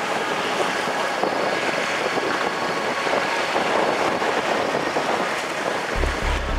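Steady rushing noise of strong wind, with wind buffeting the microphone. About six seconds in, a low, evenly pulsing music bass beat comes in underneath.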